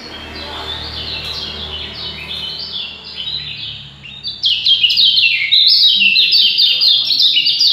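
A songbird singing a rapid, non-stop run of short falling notes, packed tightly together. It grows louder and denser about halfway through.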